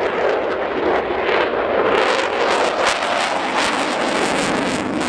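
Aircraft engine noise from a plane flying past: a loud, continuous roar with a crackling edge.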